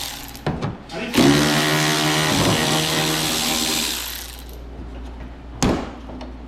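A handheld power tool runs for about three seconds in one steady burst, with a few short knocks before and after it.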